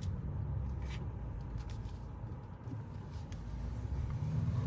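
BMW X6 M50i's twin-turbo V8 running at low speed, a low engine rumble heard from inside the cabin that eases off around the middle and swells again near the end.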